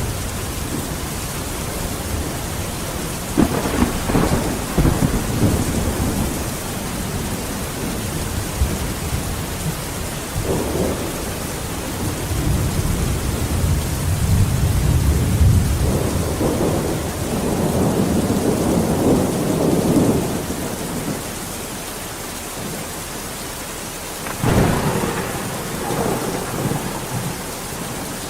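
Steady heavy rain with rolls of thunder in a thunderstorm; the thunder comes several times, two rolls starting with a sudden crack, one about three seconds in and one near the end.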